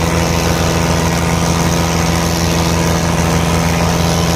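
Tractor diesel engine running steadily with a fast, even low throb.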